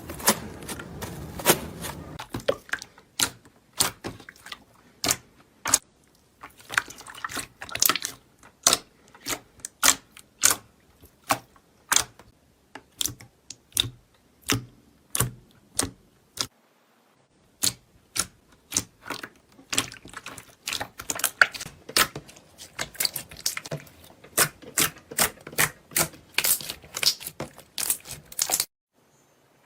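Kinetic sand being worked close to the microphone: a run of sharp, crisp clicks and crunches, several a second, with a short pause about halfway through.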